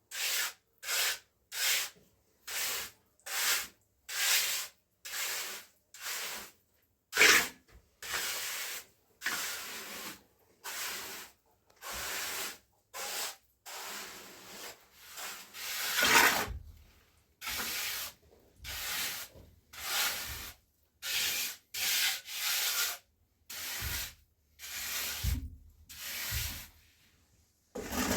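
A hand tool is drawn in repeated scraping strokes across a rough surface, about one stroke a second with short pauses between. One or two strokes are louder, and there are a few dull thuds near the end.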